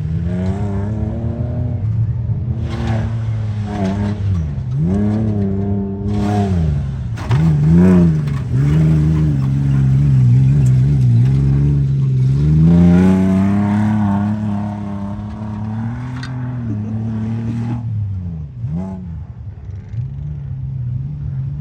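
A Tuff Trucks competition truck's engine revving hard under load, the revs climbing and dropping several times and held high for long stretches.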